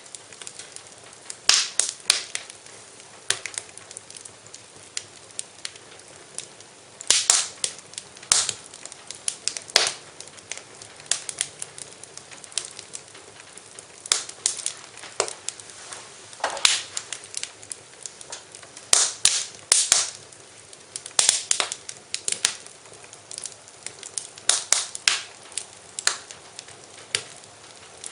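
Wood fire crackling in a fireplace: irregular sharp pops and snaps, some in quick clusters, over a faint steady hiss.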